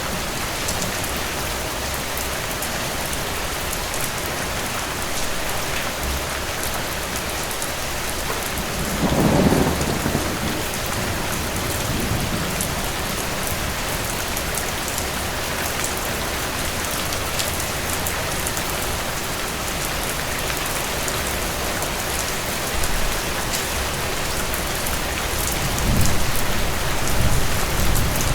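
Steady rain with distant thunder rumbling: a long low roll about nine seconds in, a weaker one a few seconds later, and more rumbling near the end.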